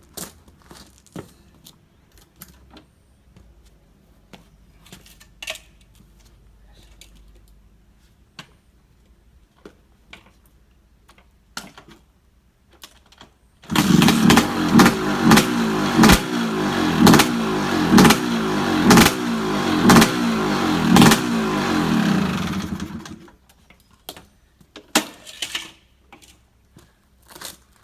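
Scattered small clicks and knocks, then an engine catches suddenly about 14 s in, starting readily after light servicing. It is blipped about once a second for some nine seconds and then shut off, followed by a few more clicks.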